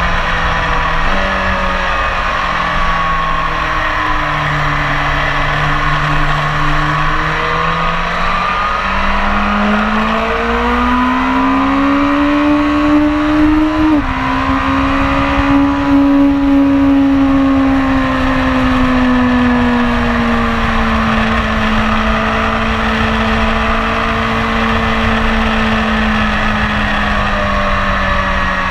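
BMW S1000RR inline-four sport-bike engine under way at speed, with wind rushing over the microphone. The revs climb steadily for several seconds, step down suddenly about halfway through, then ease down slowly.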